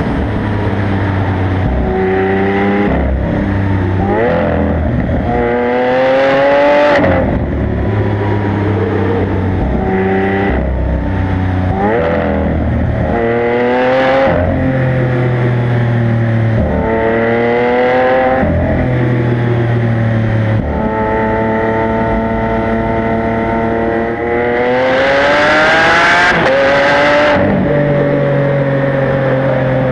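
Lamborghini Aventador LP700-4's V12 with factory racing exhaust, pulling hard through the gears. The pitch climbs during each pull and drops at each upshift, several times over, with a steady cruise in between. The loudest, highest-revving pull comes about 25 seconds in.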